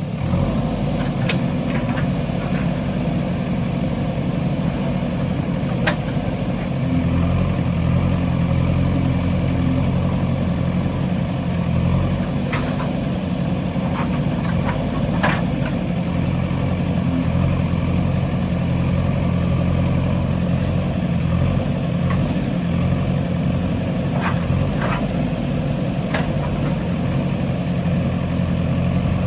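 JCB 3DX backhoe loader's diesel engine running steadily, growing stronger and a little louder about seven seconds in, with scattered sharp knocks.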